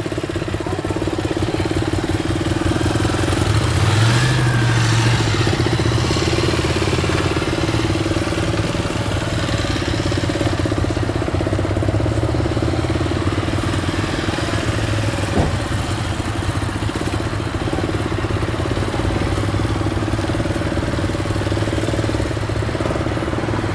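Motorcycle engine running steadily at low revs, with a brief rise in revs about four seconds in, typical of slow-speed riding under throttle, clutch and brake control.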